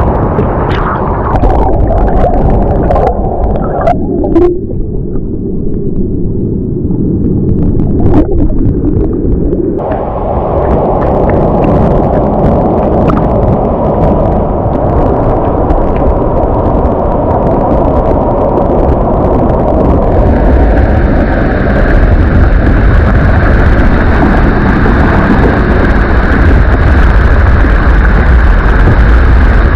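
Loud, steady roar of a waterfall, a dense rush of falling water, with a few brief knocks near the start. The rush grows fuller and hissier about two-thirds of the way in.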